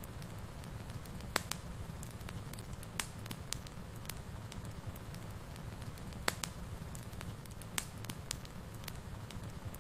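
Wood fire burning in a fireplace, with a low steady rumble of flame and sharp irregular crackles and pops.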